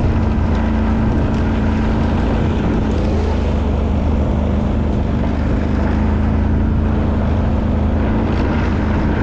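ATV (quad bike) engine running steadily while riding.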